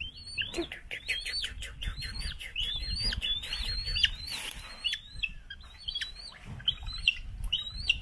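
Young birds of prey calling: a rapid run of high, thin chirps, each rising then falling in pitch, several a second at first, then spaced further apart. A brief splash of water about halfway through.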